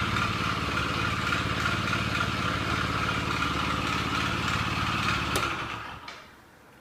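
Motorcycle engine idling with the abnormal crank noise the video is about. It is switched off about five and a half seconds in and runs down to a stop, with a small click as it dies.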